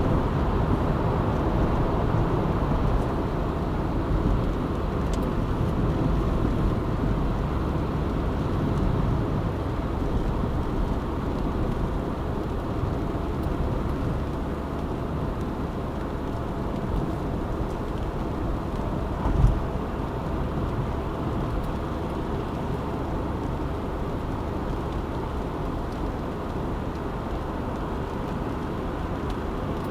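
Car driving at steady speed: continuous road and engine rumble, easing slightly in the second half, with a single short thump about two-thirds of the way through.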